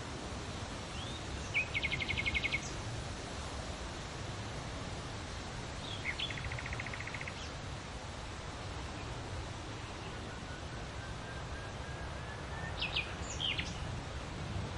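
Wild birdsong over a steady background hiss: a rapid trill of repeated notes about a second and a half in and again around six seconds, a faint thin whistle around ten seconds, and a few sharp high chirps near the end.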